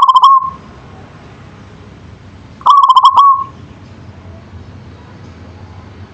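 Zebra dove (local perkutut) cooing: two phrases, one at the start and one about three seconds in, each a quick stutter of clear notes ending in a held coo.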